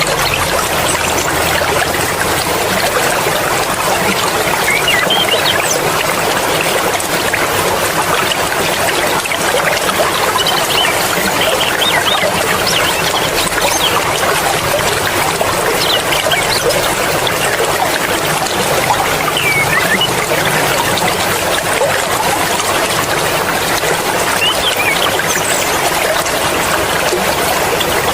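Water flowing steadily in a mountain stream, a continuous rushing and trickling.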